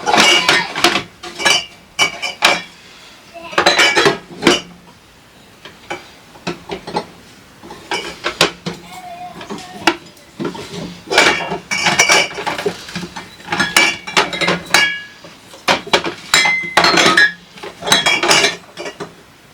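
Dishes and cutlery clinking and clattering as they are handled: bursts of sharp knocks with short ringing tones, with quieter pauses between them.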